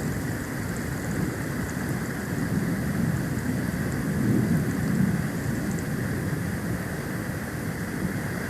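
Storm wind buffeting an outdoor nest-camera microphone during a snowstorm: a steady low rumble that swells about four to five seconds in.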